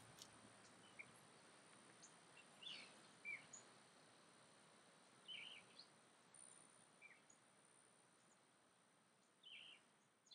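Faint, scattered bird chirps, five or so short calls a couple of seconds apart, over quiet outdoor ambience that slowly fades out.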